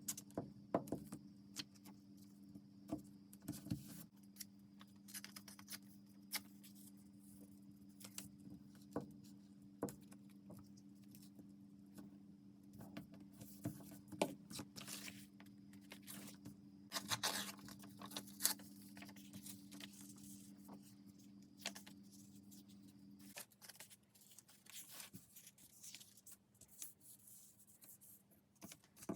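Paper and craft materials being handled: scattered rustles, light taps and scraping or tearing sounds. Under them runs a steady electrical hum that cuts off suddenly about three-quarters of the way through.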